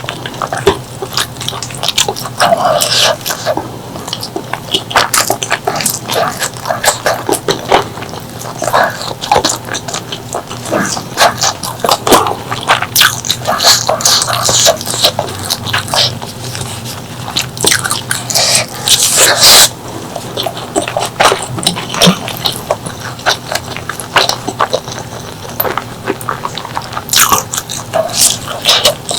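Close-miked eating of pork leg curry with rice: wet chewing, lip-smacking and mouth clicks, with a denser, louder stretch about two-thirds of the way through.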